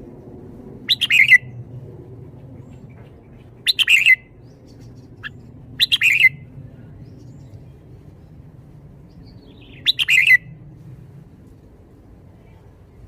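Red-whiskered bulbul singing four short, quick phrases of about half a second each, spaced two to four seconds apart.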